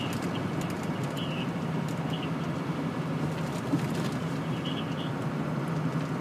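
Steady engine and road noise heard from inside a moving vehicle's cab, a constant low hum under an even rush, with a few faint short high squeaks now and then.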